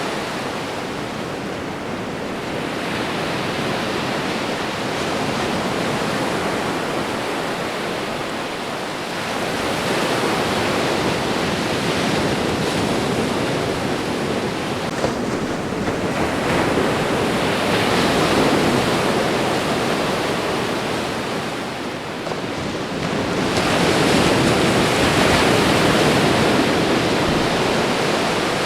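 Ocean surf washing onto a shore: a continuous rush of water that swells louder three times as waves come in.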